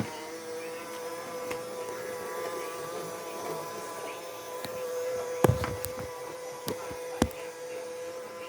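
Robot vacuum cleaner running with a steady, even-pitched whir. Two sharp knocks stand out, one about five and a half seconds in and one about seven seconds in.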